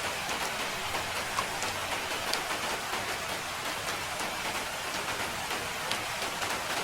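Steady rain falling, a dense hiss with many individual drops ticking sharply against a surface.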